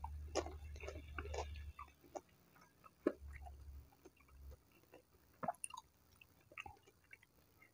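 A person chewing battered fried tempeh close to the microphone: a run of small, irregular mouth clicks and smacks, with a low rumble under the first half.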